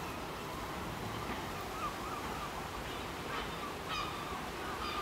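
Birds calling outdoors: short pitched calls come one after another, a few each second at times, over a low steady background rumble.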